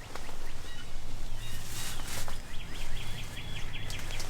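A wild songbird singing a quick run of evenly repeated high chirping notes, over a steady low hum.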